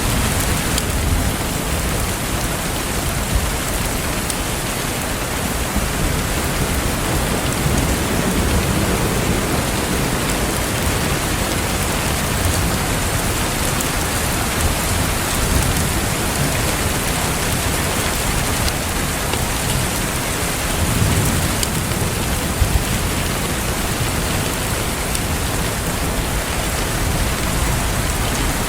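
Steady heavy rain hissing, with low rumbles of thunder swelling now and then and a few short sharp clicks.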